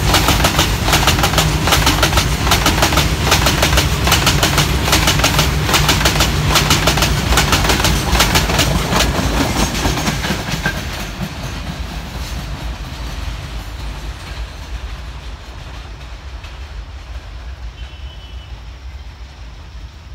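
Loaded freight wagons' steel wheels clattering fast over the rail joints at speed, a dense rapid clickety-clack. About ten seconds in, the last wagon goes by and the sound fades steadily as the train draws away.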